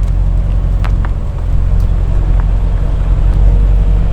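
A car engine running with a steady, deep rumble.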